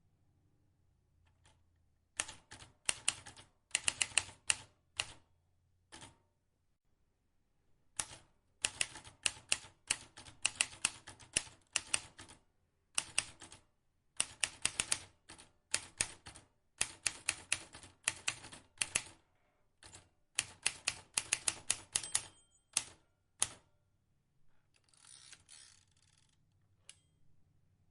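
Vintage manual typewriter being typed on: keys striking in quick runs of sharp clicks, broken by short pauses, with a softer, hazier burst near the end.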